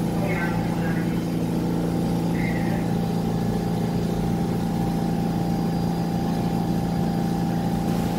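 New York City Subway train humming steadily, its motors and onboard equipment giving a flat, unchanging drone with no rise or fall in pitch.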